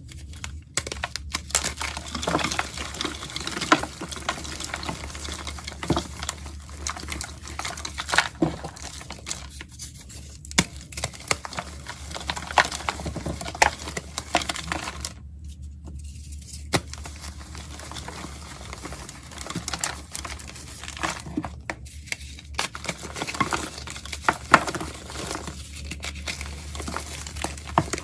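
Dry, crunchy crackling and crumbling of chalky powder, many small irregular crunches, over a steady low hum.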